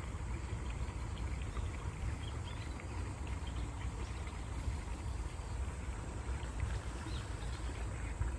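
Stream water flowing steadily, with small splashes and trickles over a low rumble.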